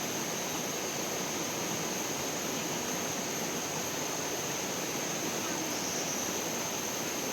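Steady rushing of flowing water, even and unbroken, with a constant high-pitched hiss above it.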